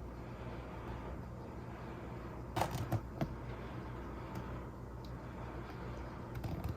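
A steady low hum with a quick cluster of sharp clicks about two and a half seconds in, and a few fainter clicks near the end.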